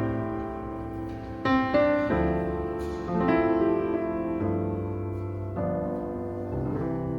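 Background piano music: slow, sustained chords and notes changing every second or so.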